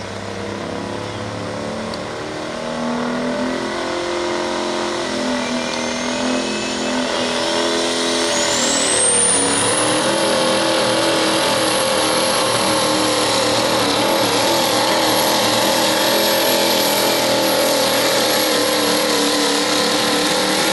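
Turbo-diesel pull truck under full load, its engine note climbing and getting louder. A high turbo whistle rises steeply about nine seconds in and then holds a steady high pitch.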